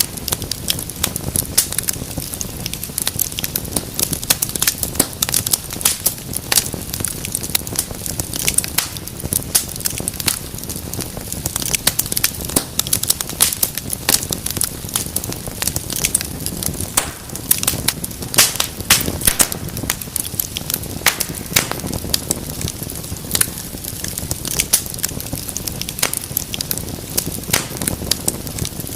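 Wood fire burning with a dense, irregular crackle of sharp pops over a low steady rumble of flame.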